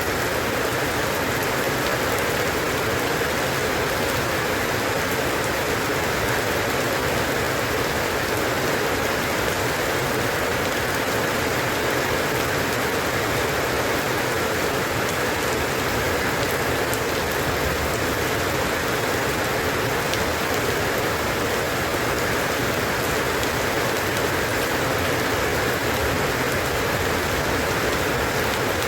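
Steady rain falling on a surface, a continuous even hiss with scattered drop ticks.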